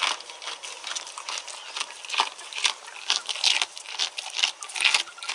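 A goat chewing fish: irregular wet crunches and crackles, a few of them louder than the rest.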